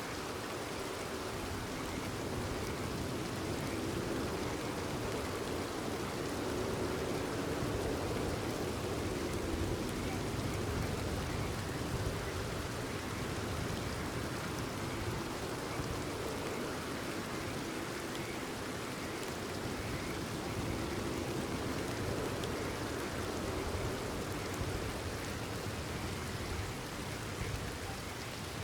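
Steady rainfall, an even hiss without breaks.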